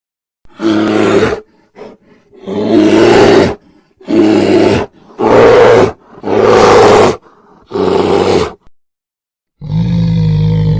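Bear roaring: a run of short, loud roars, each under a second long with silence between, then a longer roar starting near the end.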